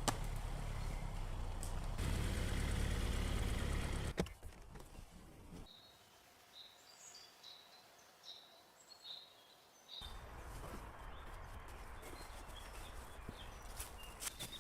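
A low steady rumble that ends with a click about four seconds in, then a quiet stretch with small birds chirping in short high calls, then a steady outdoor hiss.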